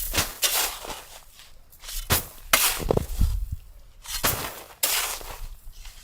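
Footsteps crunching in deep snow, irregular crunching steps coming under two a second.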